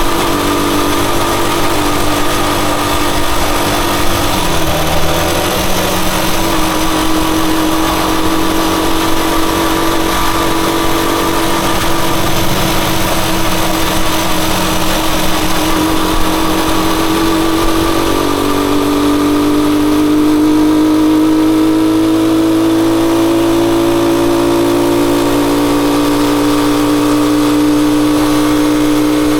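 Rusi Chariot 175 motorcycle engine running steadily on the move. Its note drifts slowly and, about two-thirds through, drops and then climbs again.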